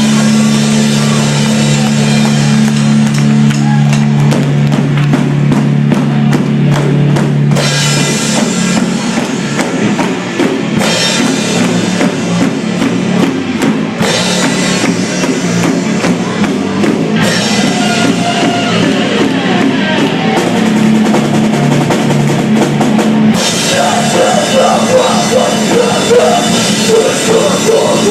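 A rock band playing live, loud: drum kit with bass drum driving the beat under distorted guitar and bass.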